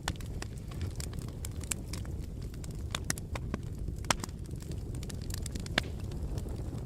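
Wood fire burning in a fireplace: a steady low rumble of flames with irregular sharp crackles and pops, two of them louder, in the middle and a little past it.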